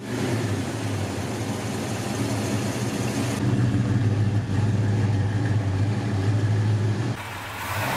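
1965 Buick Skylark Gran Sport's 401 cubic-inch V8 running steadily at low revs with a deep, even exhaust note. There is a cut to a second take about three and a half seconds in. Near the end the engine gives way to a rushing noise.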